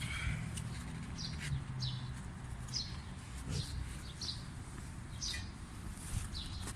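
A small bird chirping repeatedly: short, high, falling chirps about once a second, over a low steady hum.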